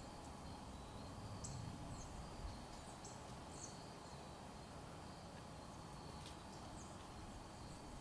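Faint ambience of short, high chirps from passing birds, about one or two a second, over a steady high insect trill.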